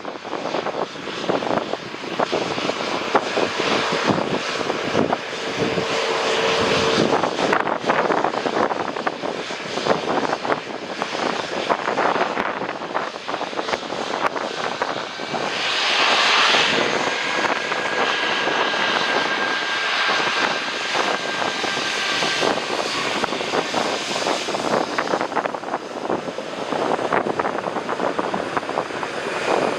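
Jet airliner engines running on landing approach, with a steady whine that swells to its loudest about halfway through. Gusty wind buffets the microphone throughout.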